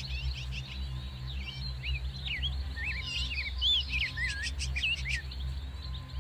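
Small birds chirping and singing: a quick run of short whistled notes sliding up and down, thickest from about one to five seconds in and thinning out near the end, over a steady low hum.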